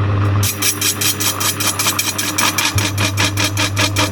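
Metal lathe turning a steel frying-pan blank at a raised speed: a steady motor hum with a rapid, even chatter of the cutting insert striking the work, about eight hits a second, the sign of an interrupted cut on an uneven blank.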